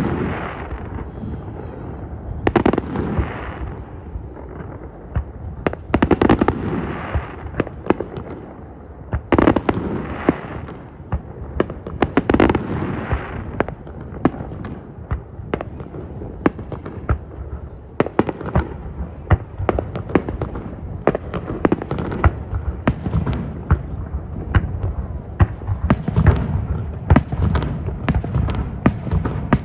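Aerial fireworks display: shells bursting with sharp booms, each followed by a rolling rumble, then a denser run of rapid crackling bangs in the second half.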